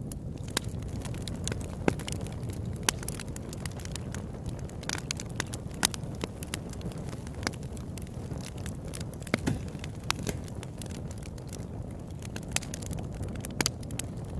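Campfire crackling: irregular sharp pops and snaps, several a second, over a steady low rush.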